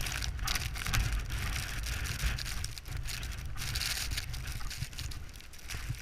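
Blizzard wind buffeting the microphone: a constant low rumble with a gusting high hiss that swells and fades.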